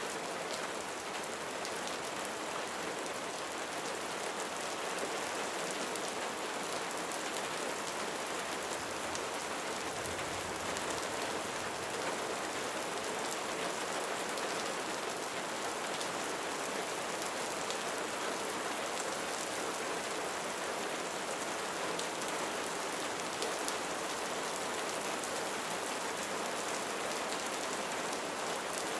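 Steady rain falling on a roof, an even hiss with the patter of individual drops.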